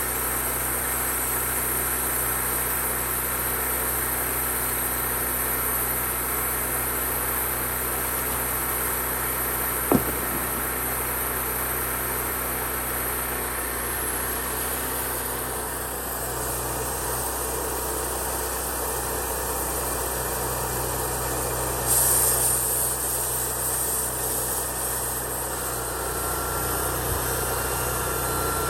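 Sawmill engine running steadily, with a single sharp click about a third of the way in and a brief hiss about three quarters of the way in.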